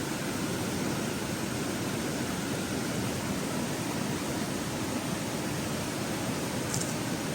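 A river rushing steadily over its bed, an even wash of flowing water.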